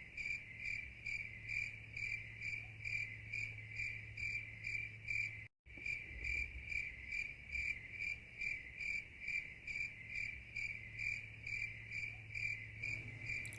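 Cricket chirping in an even, regular rhythm, about two to three chirps a second, with a faint low hum underneath. The sound cuts out briefly about five and a half seconds in.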